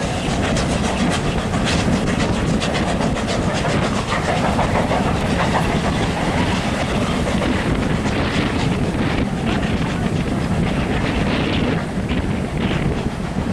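Steam-hauled train running past, its coaches' wheels clicking over the rail joints over a steady rumble.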